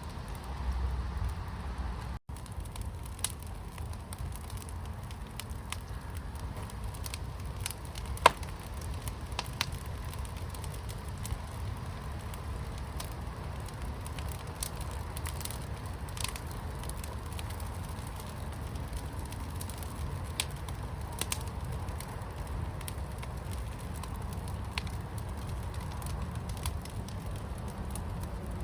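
Fire burning in a fire pit, crackling with scattered sharp pops over a steady low rumble; the loudest pop comes about eight seconds in.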